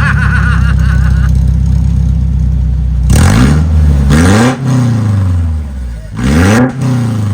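Pickup truck engine idling just after starting, then revved three times in quick blips, about three, four and six seconds in. The exhaust runs through a partly gutted catalytic converter that is blowing out loose chunks of its insides.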